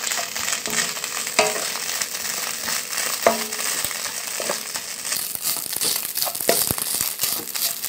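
Shredded dried salted fish sizzling as it is stir-fried in oil in a nonstick pan, with a wooden spatula scraping and tapping the pan bottom now and then. The fish is being fried dry until golden and fluffy.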